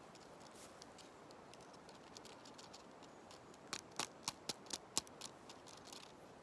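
Dry leaves and a spruce branch being handled close to the microphone, giving a quick run of about seven sharp crackling clicks just after the middle. Faint scattered crackles and a steady soft hiss sit underneath.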